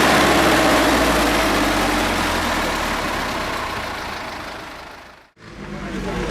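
Tractor engines running, a steady low hum with wide noise above it, fading out about five seconds in; after a brief silence, engine sound comes back in.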